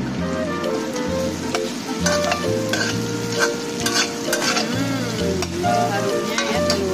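Food stir-frying in a pan: a steady sizzle as a spatula stirs and scrapes, with scattered sharp clicks of the spatula against the pan. Background music with a plodding bass line plays under it.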